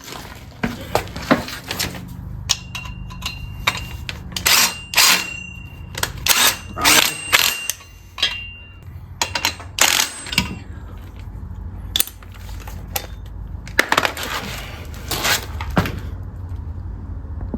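Metal tools and bolts clinking and clanking irregularly against the steel engine-stand mounting plate and engine block as the bolts are fitted and tightened, some knocks ringing briefly.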